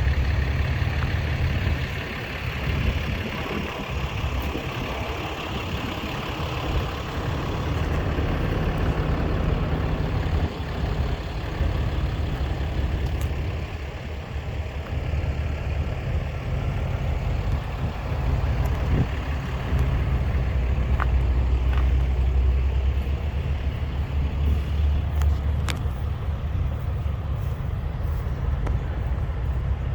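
Truck engines running with a steady low rumble, over a noisy outdoor background with a few sharp clicks in the second half.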